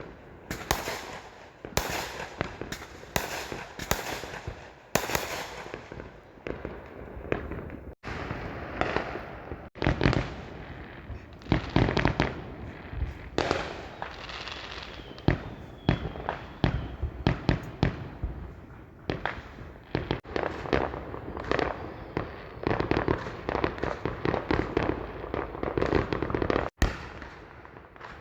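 Fireworks going off in rapid succession: many sharp bangs and crackling pops, packed more densely in the second half.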